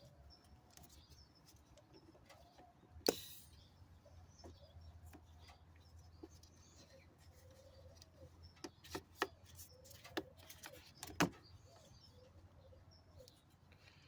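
Sharp clicks and snaps of vacuum lines being pulled off the fittings of a Toyota Sienna's air intake hose: one loud click about three seconds in, then a quick run of clicks between about eight and eleven seconds. Birds call softly in the background.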